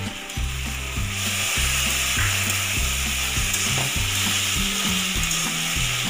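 Soaked rice with ginger and green-chilli paste frying and sizzling in hot oil in an aluminium pot while a spatula stirs and scrapes it. The sizzle grows louder about a second in.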